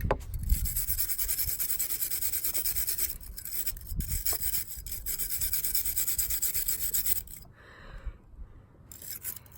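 Wire brush scrubbed back and forth over a small metal model car body, stripping the last of the paint from its cracks, in rapid, even strokes. It stops briefly near the end, then starts again.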